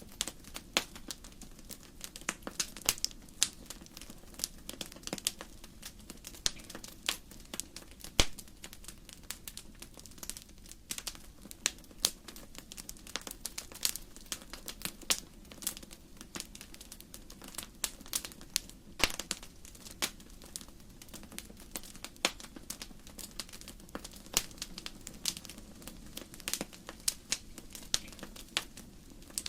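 Wood logs burning in a fireplace, crackling: irregular sharp pops and snaps, several a second, over a low steady rumble of the fire.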